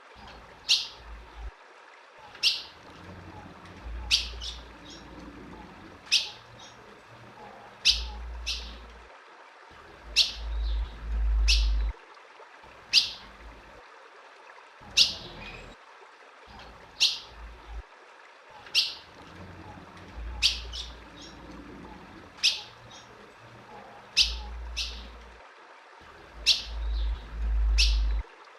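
A female ultramarine grosbeak (azulão) calling: single short, sharp chip notes repeated about every one and a half to two seconds, a few followed by a fainter second note. A low rumble comes and goes underneath.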